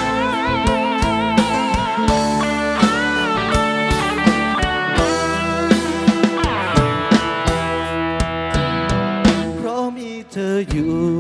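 Live rock band playing an instrumental passage: a lead electric guitar holds melody notes with wide vibrato over a drum kit and bass, with a short break about ten seconds in.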